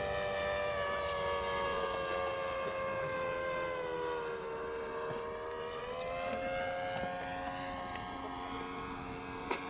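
Radio-controlled model airplane's engine running in flight, a steady buzz with many harmonics whose pitch sags about four seconds in and climbs again around six seconds, as with a throttle change or the plane passing by. A short click near the end.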